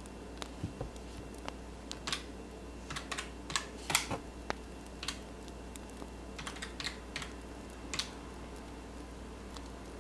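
Wood fire crackling, with irregular sharp pops and clicks that come in clusters, mixed with pen sounds, over a steady low hum.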